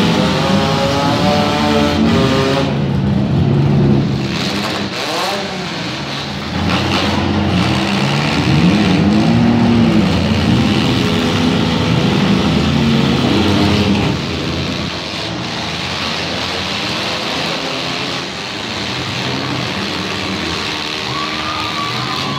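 Several demolition derby cars' engines revving together in a dirt arena, their pitch repeatedly rising and falling as they push and ram. The engines are louder for the first two-thirds, then ease off somewhat.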